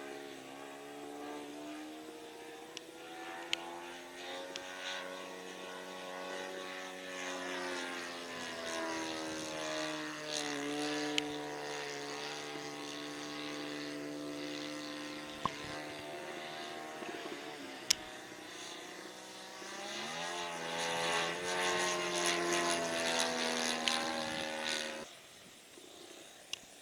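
RC airplane's motor and propeller flying overhead, the pitch rising and falling as it passes and the throttle changes, then cutting off abruptly near the end. The pilot finds the motor not sounding right and fears it may quit.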